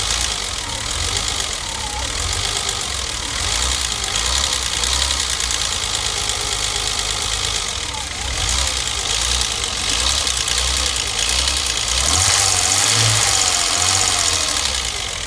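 BMW M20B20 straight-six engine idling steadily, freshly rebuilt with a new camshaft.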